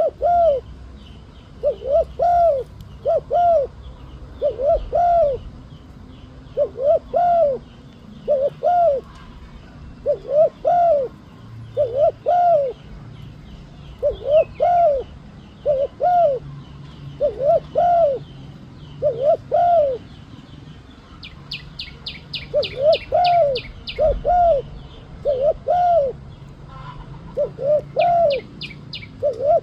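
Spotted dove (tekukur) cooing: repeated phrases of short coos that rise and fall, mostly in pairs or threes with short pauses between. Small birds chirp faintly behind it, and a fast dry ticking trill comes twice in the second half.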